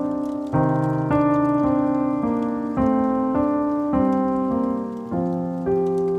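Slow, gentle piano music: soft chords struck about once a second, each left to ring and fade before the next.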